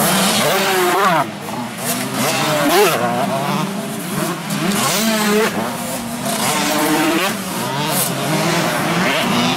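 Several 125cc two-stroke motocross bikes racing, their engines repeatedly revving up and dropping back as the riders accelerate and shift, over a steady drone from other bikes.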